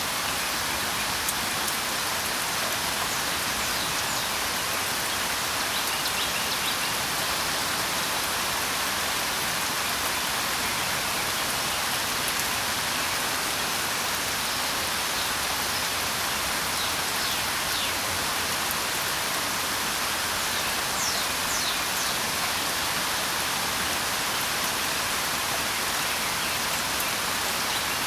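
Steady rain, with a few faint high chirps now and then, likely from birds.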